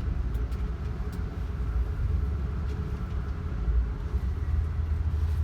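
Steady low rumble of a moving Amtrak passenger train, heard from inside the passenger car, with a few faint clicks.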